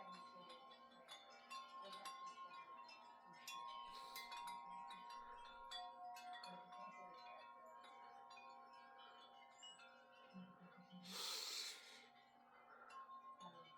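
Wind chimes ringing faintly in the wind, many light strikes and overlapping ringing tones. A brief rush of noise sounds about eleven seconds in.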